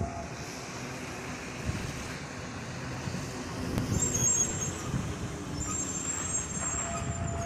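Outdoor background noise: a steady low rumble, with faint high-pitched whistles about four seconds in and again near the end, and a steady tone that starts just before the end.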